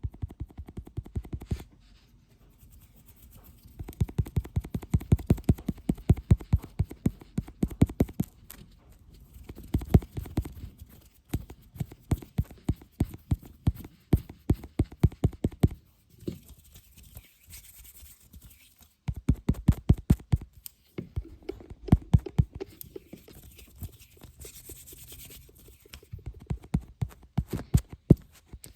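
Fingertips tapping quickly on a lid, in runs of about five or six taps a second lasting a few seconds each with short pauses between, and a couple of stretches of scratching on the lid.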